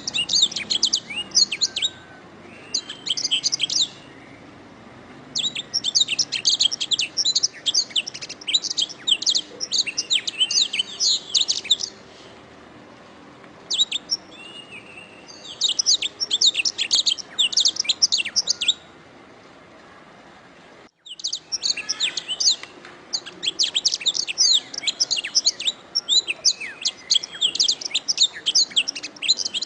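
Domestic canary singing long phrases of rapid, high chirping trills, broken by short pauses of a second or two. The song cuts out briefly about twenty-one seconds in, then resumes.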